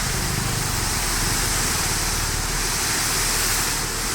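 Tata 3718 tipper truck's diesel engine running steadily under a continuous rushing noise, with no pauses or knocks.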